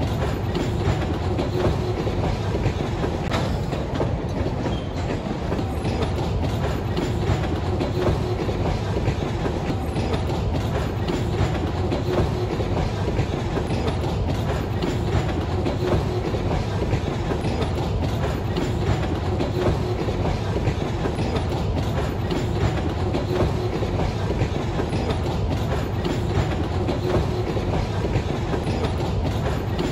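Freight train tank cars rolling past, a steady rumble of steel wheels on rail with frequent clicks as the wheels cross rail joints.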